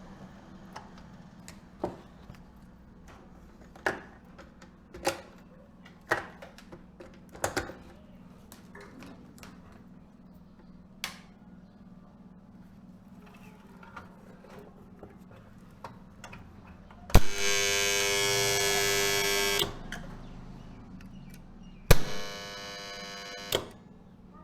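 Scattered clicks of hand work on a single-phase motor control panel, then twice a click followed by a loud, steady electrical buzz: about two and a half seconds the first time, and shorter and quieter the second time near the end.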